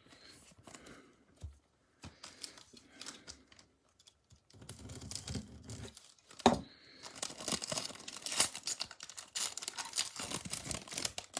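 Foil trading-card pack wrapper being torn open and crinkled by hand. A few small handling clicks come first, then a sharp rip about six and a half seconds in, followed by dense crinkling.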